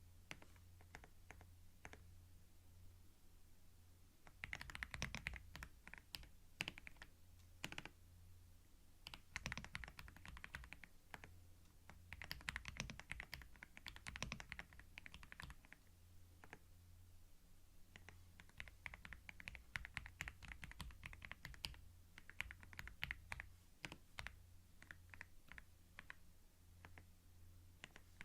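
Typing on a computer keyboard, close-miked. A few scattered keystrokes come first, then from about four seconds in there are runs of rapid typing broken by short pauses.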